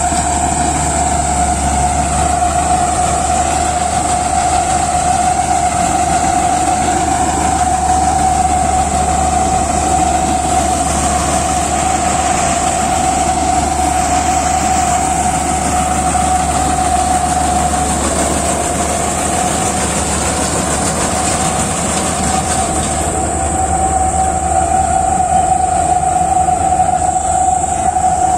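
RAM 985 combine harvester running, a loud steady mechanical drone with a constant whine over it.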